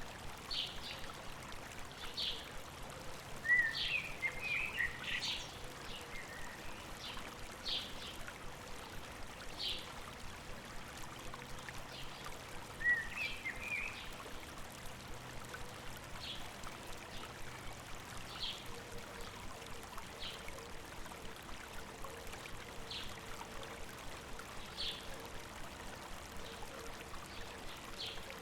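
A river or stream babbling steadily, with birds chirping over it: short high notes every second or two, and brief bursts of twittering about four and thirteen seconds in.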